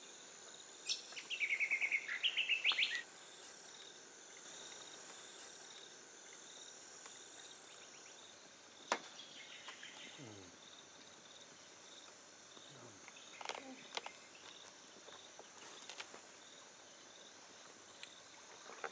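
Crickets or other insects chirring steadily, with a bird giving a quick run of chirping calls about a second in and a few short bird calls and clicks later on.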